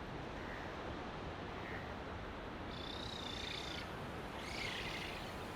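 Birds calling over a steady background hiss: one shrill call held for about a second, about three seconds in, then a shorter call near the end.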